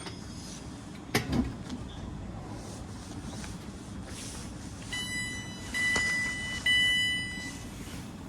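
Low steady rumble of a train at the station, with a sharp click about a second in. In the second half come three steady electronic tones, each under a second long.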